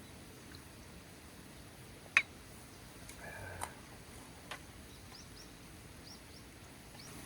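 A sharp click about two seconds in, then a short call and a couple of lighter clicks, and several faint, high, quick rising chirps of small birds in the second half.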